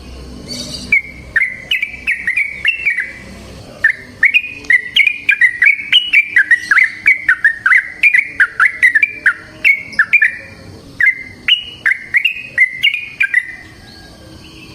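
Yellow-vented bulbul (trucukan) singing in bubbly phrases of quick chirping notes. A short phrase comes near the start and a long unbroken run of notes lasts from about four seconds in to ten, then more short phrases follow.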